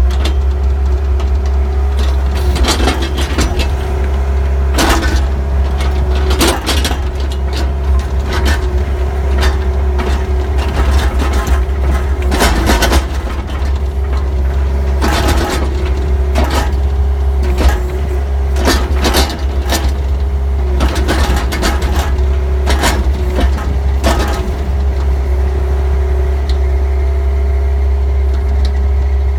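John Deere 60G compact excavator's diesel engine running steadily, with a constant whine over it, while it loads topsoil into a pickup. There is a series of clanks and knocks from about two seconds in, stopping a few seconds before the end, after which only the engine is heard.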